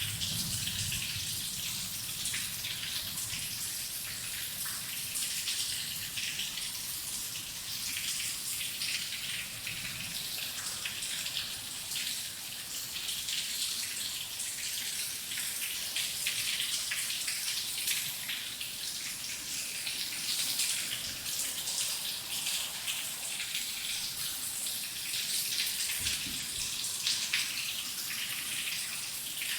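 Heavy rain falling steadily, a dense hiss of countless close drops. A low rumble of thunder fades out in the first second, and there is one brief low thump near the end.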